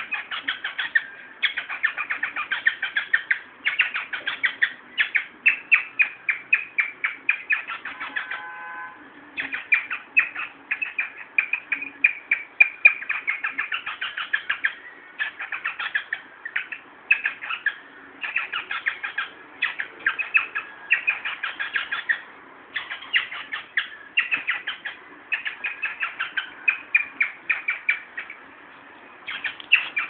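Caged pet bird chirping rapidly and over and over, several short high chirps a second in long runs, while it mounts and rubs against a yellow glove. The runs break off briefly about a third of the way in and again near the end.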